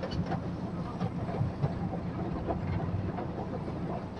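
A train running, heard from inside the carriage: a steady rumble with a low hum and small scattered clicks and rattles.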